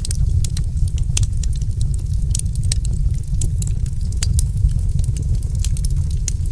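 Wood fire crackling, with many sharp pops and snaps, several a second, over a steady low rumble of the flames.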